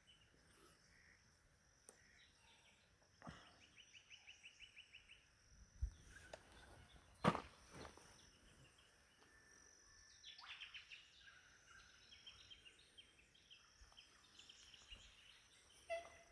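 Faint bird calls in the bush, including quick runs of repeated high notes, with one sharp click about halfway through.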